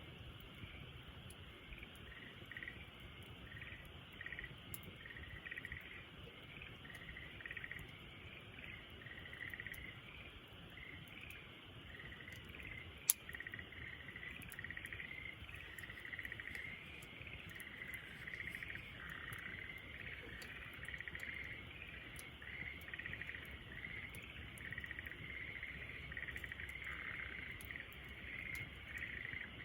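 Campfire crackling with scattered small pops and one sharp, loud pop about 13 seconds in, over a continuous outdoor night chorus of rapid chirping calls.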